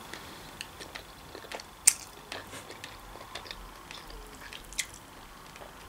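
Quiet chewing and mouth sounds of someone eating boiled khinkali dumplings, with scattered small clicks and smacks, the loudest about two seconds in.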